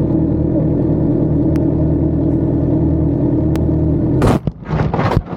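A vehicle engine runs steadily, then about four seconds in comes a loud crash as a motorcycle is hit hard from behind, followed by a quick run of clattering knocks.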